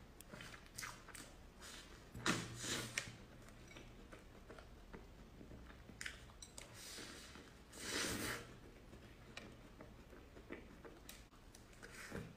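Close-up eating of cream puffs: biting into the choux pastry and chewing, with louder bites about two seconds in and again about eight seconds in.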